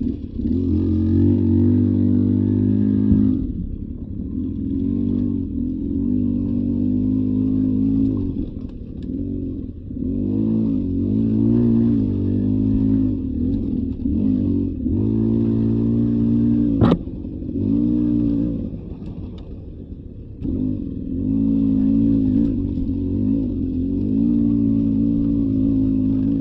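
Beta 300 RR two-stroke single-cylinder dirt bike engine running under load on a trail, its revs rising and falling as the throttle is opened and eased off. A single sharp knock about 17 seconds in.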